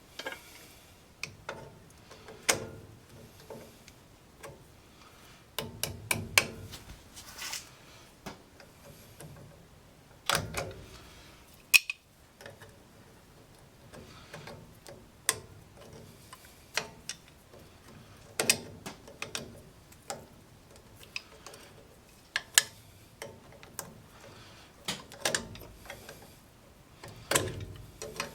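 Metal parts and hand tools clicking and clinking at irregular intervals during hand work on a truck's front wheel hub as its wheel bearing is serviced, with a few louder sharp knocks.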